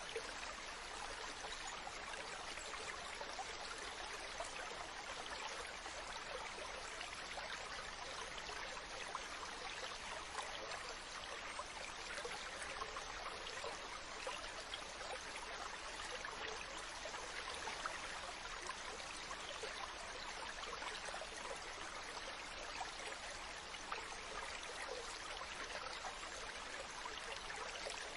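Mountain stream running steadily over rocks, an even rush of water with a fine trickling texture.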